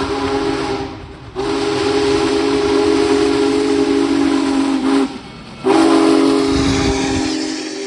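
Union Pacific 4014 Big Boy steam locomotive passing at track speed, blowing its chime whistle for a grade crossing in long blasts with two short breaks, about a second in and about five seconds in. The hiss and rumble of the passing train run underneath.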